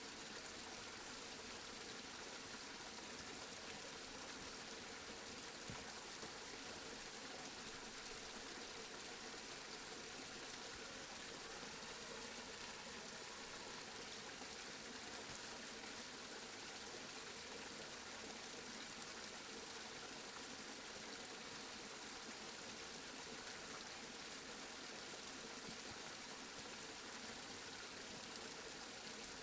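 Steady rain, an even hiss of falling water with no breaks or thunder.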